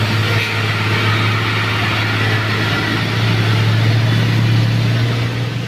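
Heavy truck's diesel engine running with a steady low hum, getting a little louder about three seconds in.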